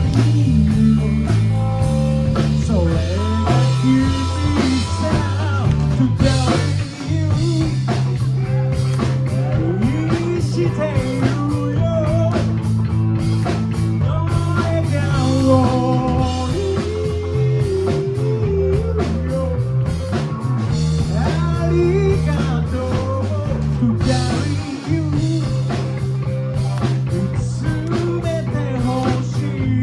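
Rock band playing live, with electric guitar over a heavy bass line.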